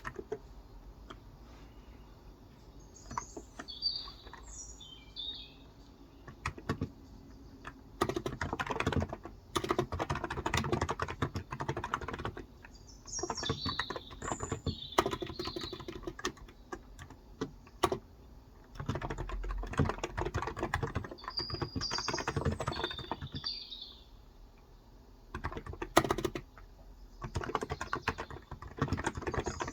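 Typing on a Cox Endeavor capacitive (electrostatic, 35 g) tenkeyless keyboard, in runs of quick keystrokes of a few seconds each with short pauses. A small bird sings short chirping phrases four times through it.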